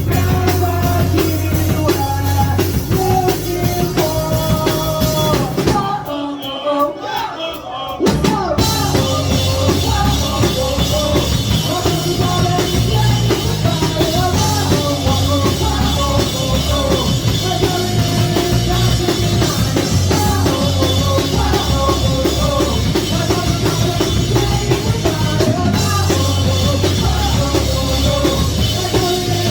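Live rock band playing a song with drums and singing. About six seconds in, the drums and bass drop out for roughly two seconds, then the full band crashes back in.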